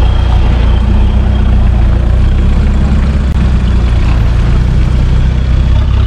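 Off-road 4x4's engine running steadily at low revs as it crawls over rocks.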